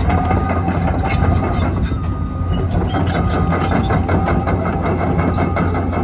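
Komatsu PC200LC-8 hydraulic excavator on the move. Its steel tracks clank and rattle, with high squeals coming and going, over the steady hum of the diesel engine.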